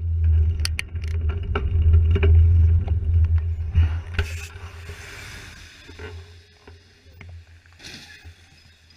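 Low rumble of a car on the move, picked up by a dashcam, with several sharp knocks and clatters. The rumble is loud for about four seconds and then fades away.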